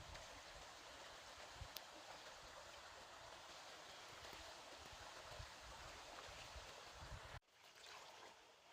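Faint, steady sound of flowing stream water, with irregular low rumbles underneath. It cuts off abruptly about seven seconds in, leaving quieter noise.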